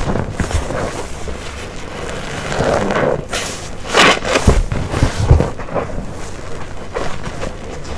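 A wet, soapy waffle-textured car wash sponge being squeezed by hand, squelching as detergent water is pressed out, with the strongest squeezes about three and a half to five and a half seconds in.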